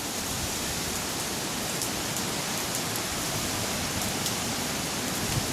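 Steady heavy rain pouring down in a hurricane rain band, a continuous even hiss.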